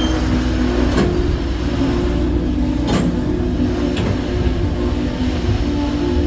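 Passenger train rolling along the track: a steady rumble and hum, with three sharp clicks of the wheels over rail joints.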